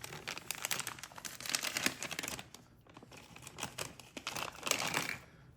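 Small plastic bag crinkling and rustling as it is handled, in two spells of dense crackle with a short pause between.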